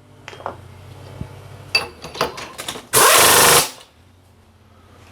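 Light metallic clicks and taps at the milling machine, then a loud hissing, rattling burst lasting under a second, about three seconds in.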